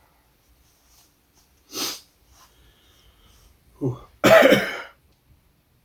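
A man coughing from the chili heat of very spicy soup: a short cough about two seconds in, then a louder, harsher one near the end.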